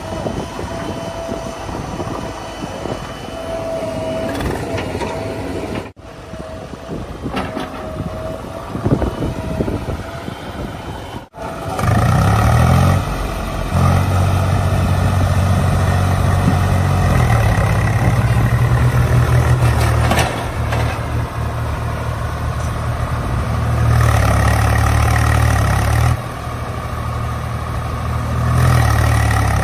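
Heavy vehicle's diesel engine running. About a dozen seconds in it comes in loud and close, running hard, with its level rising and falling several times as the load changes.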